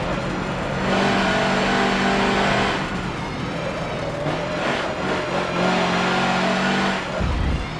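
Mercedes-Benz racing truck's diesel engine running hard under load. The note drops about three seconds in and rises again later, and there is a short low thump near the end.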